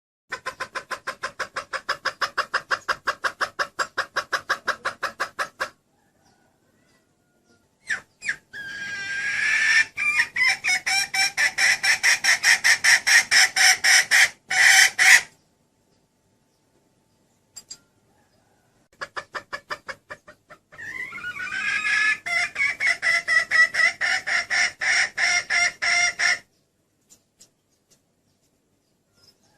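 Junglefowl hen calling in rapid clucking runs of about five notes a second, in three bouts with short pauses between. This is the hen call used as a lure to draw in a junglefowl rooster.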